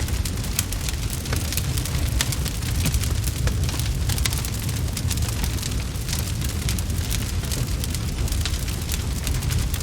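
Wood fire crackling in a fireplace: a dense run of sharp pops and snaps over a steady low rumble.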